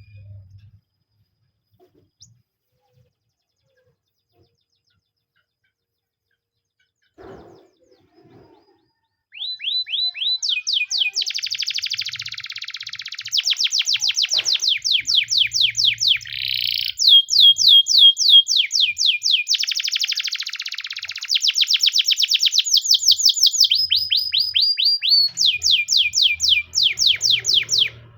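Near silence for about the first nine seconds, then a canary sings a long run of rapid trills: fast series of repeated downward-sweeping notes, changing to a new trill every second or two, with a few buzzy rolls between them. The song stops just before the end.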